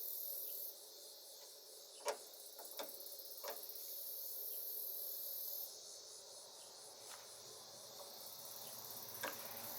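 Insects chirping steadily in a high-pitched, pulsing drone, with a few short, faint clicks about two to three and a half seconds in and again near the end.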